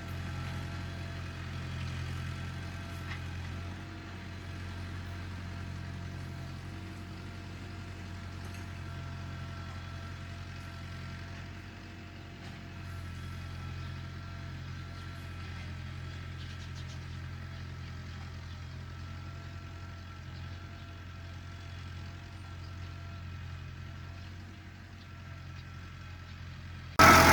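Tractor engine running steadily with an even low hum. Just before the end the sound cuts suddenly to much louder.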